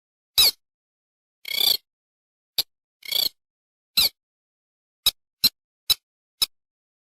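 Recorded lure call of a paddy-field crake: a string of short, sharp, high calls at uneven spacing. Two longer warbling calls come about a second and a half and three seconds in. The gaps between calls are dead silent, as in an edited playback recording.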